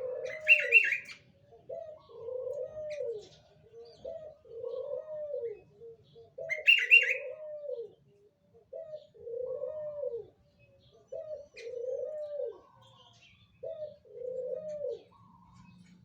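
A puter dove (domestic collared dove) cooing its territorial call. The call repeats about every two seconds, seven times, and each one is a short note followed by a longer note that rises and falls. Two loud, higher chirps cut in, about a second in and again near seven seconds.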